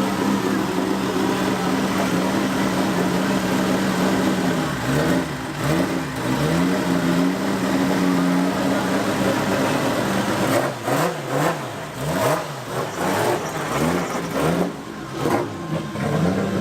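Drift car's engine idling steadily, then revved in quick blips, a few at first and then many in a row over the second half, with sharp cracks among the revs.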